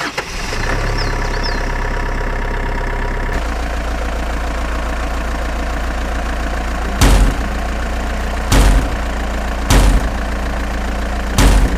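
Truck engine idling steadily, its note shifting lower about three seconds in. Four short, loud blasts come in the second half, spaced a second or more apart.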